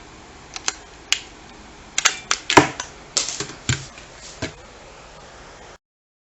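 A run of sharp clicks and knocks, about a dozen, irregular and bunched in the middle: hard parts being handled, typical of working the battery compartment and casing of a toy lightsaber. The sound then cuts out completely just before the end.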